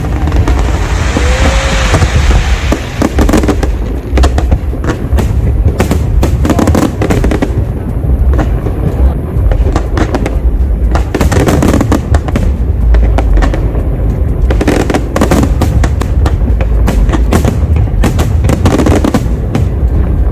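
Fireworks display going off in a rapid, continuous barrage of bangs and crackles, with a heavy low rumble underneath.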